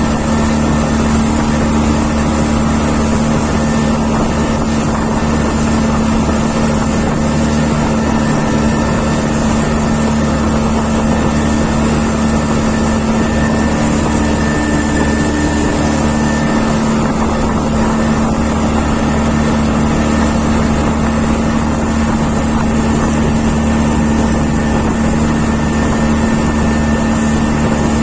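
Marine diesel engine running steadily at constant speed, an unbroken drone with a fixed pitch.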